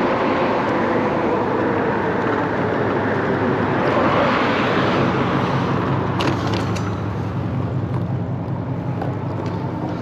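Steady road and riding noise of a moving e-bike, swelling about four seconds in, with a few clicks a little past six seconds.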